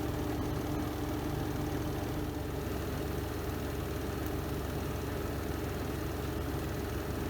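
Renova semi-automatic twin-tub washing machine's spin drum spinning, its motor giving a steady, even hum.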